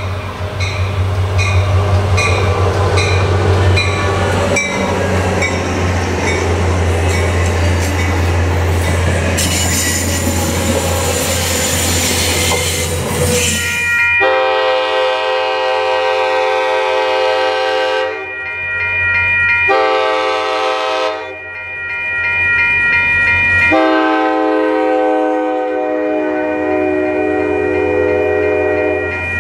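An ACE diesel commuter locomotive passing close with a steady low engine drone and wheel clicks over the rail joints, about one and a half a second, followed by a louder high hiss of the passing cars. From about halfway, a multi-tone train horn sounds three blasts, the last held as the bilevel coaches go by.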